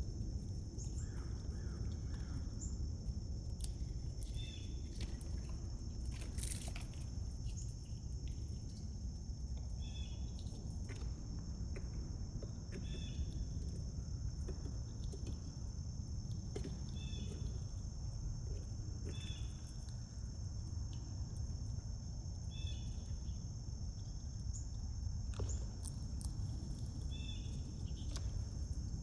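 Steady high insect drone with a bird's short call repeating every two to three seconds. Underneath is a constant low rumble, with scattered light clicks.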